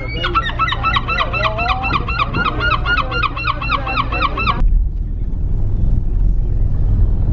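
A rapid run of repeated bird calls, about four a second, which cuts off abruptly about four and a half seconds in. A steady low rumble follows.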